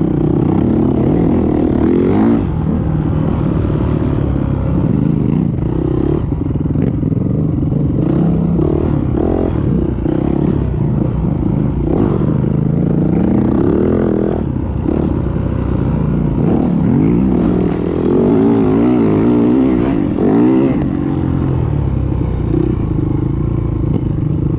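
Yamaha WR450F dirt bike's single-cylinder four-stroke engine, ridden hard, revving up and down repeatedly as the throttle opens and closes.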